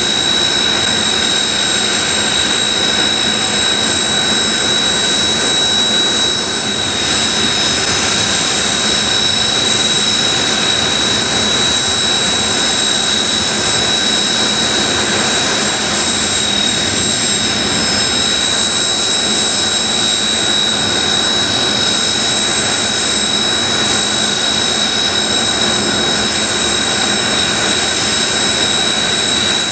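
Kawasaki T-4 jet trainers' twin turbofan engines idling on the ground: a steady roar with a high whine held on one pitch.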